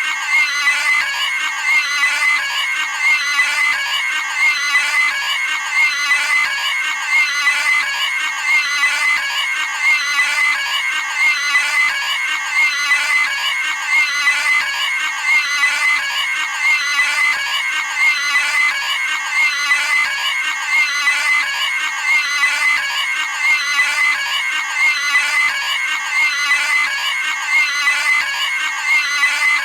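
Cartoon pig screaming, a high-pitched squeal looped over and over at roughly one scream a second.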